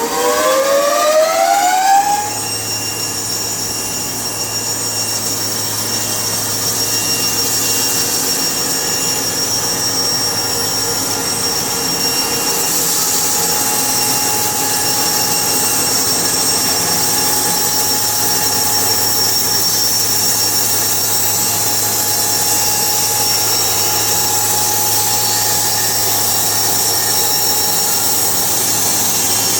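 A machine motor spinning up, its whine rising in pitch for about two seconds, then running at a steady speed with an even, high-pitched whine.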